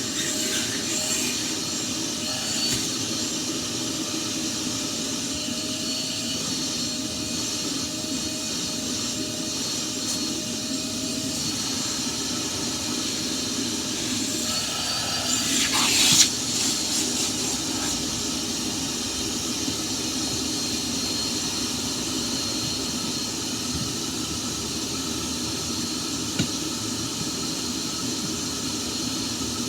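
Vacuum cleaner running steadily, a hissing rush of air over a motor hum. About halfway through there is a brief louder burst with a falling tone, then the steady running carries on.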